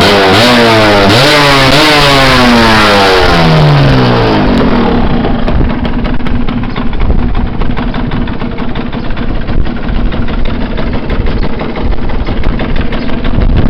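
Yamaha DTR 125's single-cylinder two-stroke engine at full throttle, its pitch climbing steeply and dropping back several times as it pulls up through the gears. About four to five seconds in, the revving stops and it settles into a rougher, steadier and somewhat quieter running sound.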